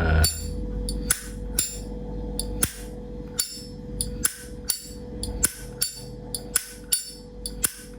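Vintage Zippo lighter, dated about 1957, having its lid flipped open and snapped shut again and again: about a dozen sharp metallic clacks. The seller calls the clack the lighter's original sound, the sign of unrestored original hinge and cam parts. A steady low background hum runs underneath.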